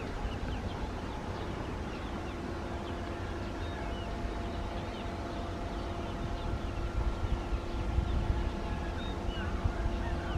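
Birds chirping repeatedly over a steady low rumble and a faint steady hum.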